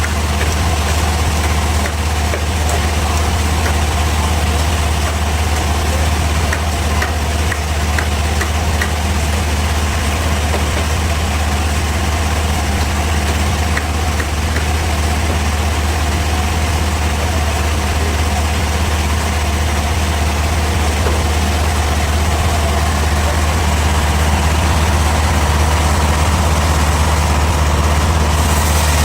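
Bandsaw sawmill machinery running steadily with a loud, low engine drone, getting slightly louder near the end.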